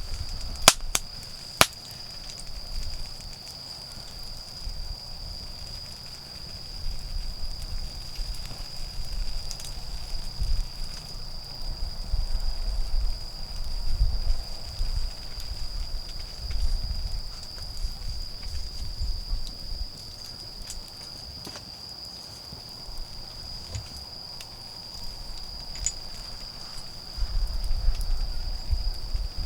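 A wood fire crackles with a few sharp pops, the loudest two near the start, over a low rumble that swells and fades. Autumn insects keep up one unbroken high-pitched trill throughout.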